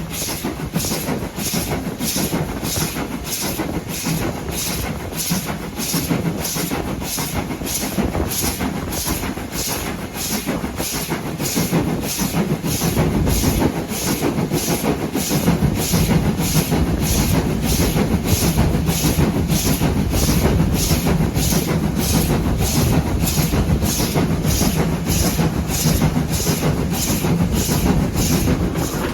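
A train running: a steady rumble under a regular, even beat about one and a half times a second, a little louder in the second half.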